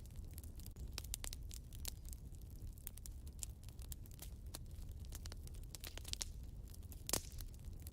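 Fire crackling in a fireplace: irregular sharp pops and snaps over a low steady rumble, with one louder pop near the end.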